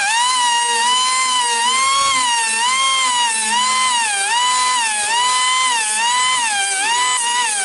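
Air-powered grinder whining as it sharpens a bandsaw blade tooth by tooth, its pitch dipping under load and recovering about every three quarters of a second as each tooth is ground.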